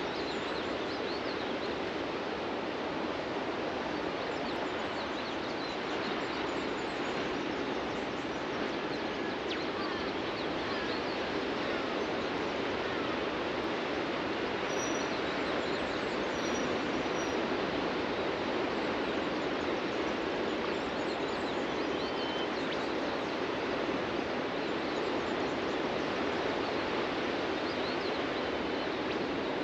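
Ocean surf breaking and washing on a beach in a steady, continuous rush, with a few faint high bird chirps.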